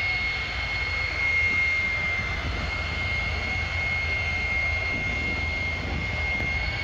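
Jet engine of a jet-powered Kenworth semi truck running steadily, short of full throttle: a constant high whine over a low rumble.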